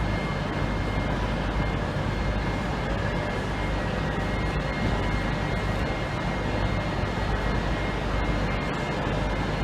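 Train standing at a station platform: a steady mechanical drone with a thin, constant high whine over it.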